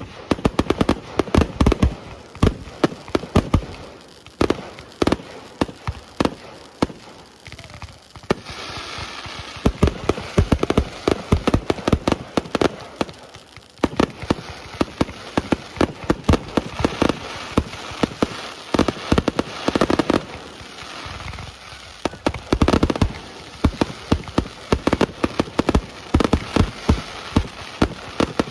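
Aerial fireworks display: a rapid, continuous run of loud shell bursts and bangs. Two longer stretches of dense crackling rise over it, one about a third of the way in and one past the middle.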